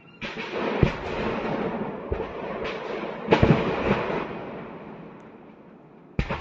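Ammunition depot cooking off in secondary explosions: a sudden rush of crackling noise broken by sharp bangs, loudest about three and a half seconds in, then fading, with another sharp blast near the end.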